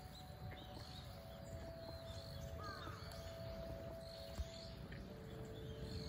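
Faint outdoor ambience with distant bird calls: short high calls repeating through, and one lower call near the middle, over a low steady hum.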